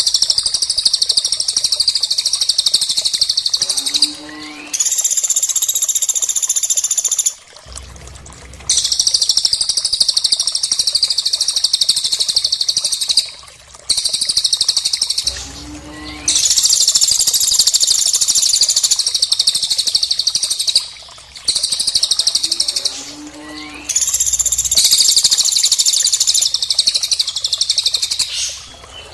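Recorded bird calls from a birdsong tutoring track mixing cililin and pelatuk: loud, dense, high-pitched trilling in stretches of several seconds, broken by short pauses.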